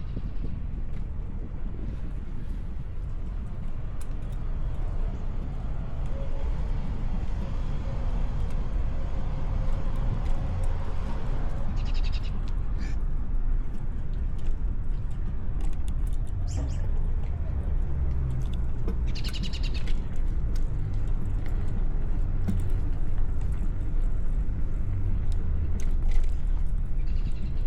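Steady low rumble of wind on the microphone and street noise while cycling, with short high bird chirps a few times through the middle and near the end.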